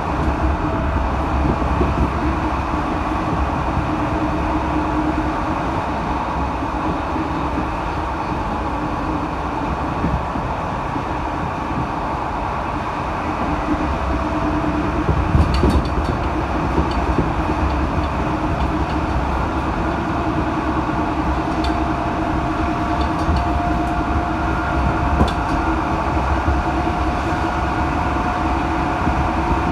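Passenger train running, heard from inside the carriage: a steady rumble of wheels on rails with a faint whine that rises slowly in pitch over the second half, and a few sharp clicks.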